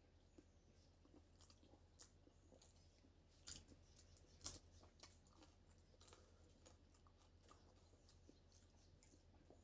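Faint eating sounds: chewing, with soft wet clicks and two louder crunches about three and a half and four and a half seconds in.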